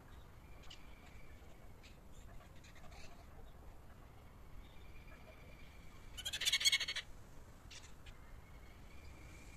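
A bird gives one rapid chattering call, a quick run of repeated notes lasting under a second, about six seconds in. A faint thin steady whistle comes and goes around it, with a few soft clicks.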